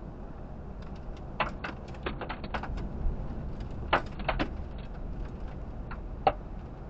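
A run of sharp, irregular ticks and knocks on a vehicle, about fifteen in a few seconds with the loudest near four and six seconds in, over a steady low rumble.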